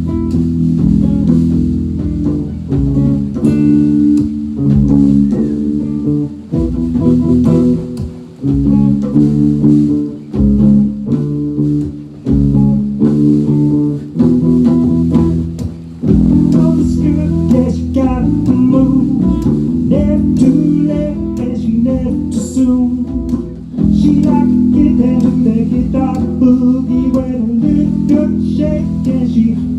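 A band playing an instrumental passage with guitar and bass guitar in a bluesy style. The playing is stop-start for a stretch, then runs on fuller and steadier through the second half.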